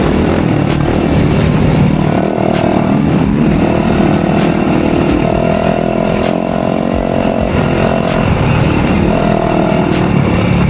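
Dirt bike engine running as the bike is ridden along the trail, its pitch rising and falling with the throttle.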